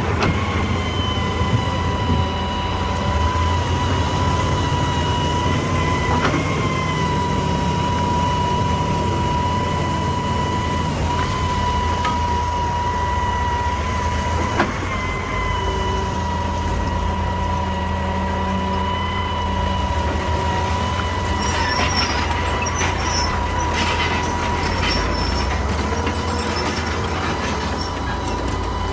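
Excavator running, with a low engine drone under a steady high whine. A couple of sharp knocks come through, and a short stretch of clattering about three-quarters of the way in.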